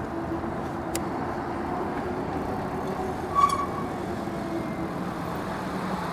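City road traffic noise heard while riding in a bike lane, with a steady hum underneath. There is a click about a second in and a short high squeak about three and a half seconds in.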